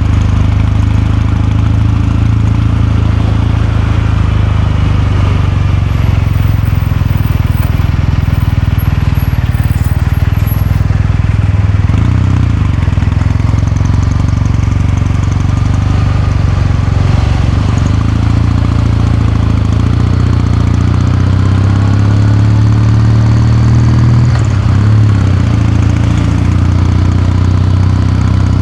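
Kawasaki Meguro K3's air-cooled 773 cc parallel-twin engine and exhaust running under way, a steady low beat whose revs rise and fall a few times, with a climb and a drop about 24 seconds in.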